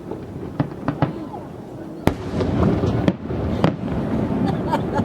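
Fireworks exploding overhead: a run of sharp bangs and pops, about half a dozen, with the loudest about two seconds in, over a steady low rumble.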